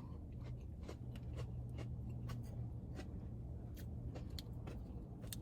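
Quiet chewing of crunchy fried food, heard as a scatter of irregular small crunching clicks, over a steady low hum.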